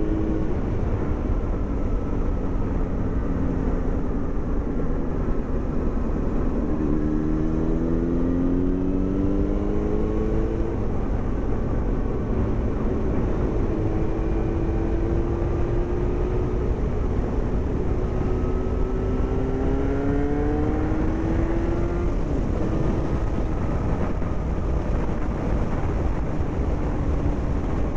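Yamaha FZ6 Fazer's 600 cc inline-four running through a homemade baffled exhaust as the bike is ridden, its pitch rising several times as it accelerates, over a steady low rumble.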